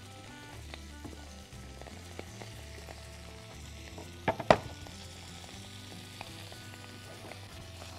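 Beef sausages sizzling as they fry in a little oil in a hot wok, over soft background music. Two sharp knocks come just past halfway.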